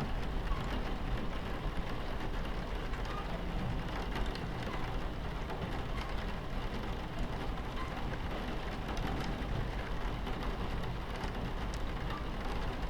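Steady rain on a train window over the low, continuous rumble of a train running on its tracks, with scattered small raindrop ticks.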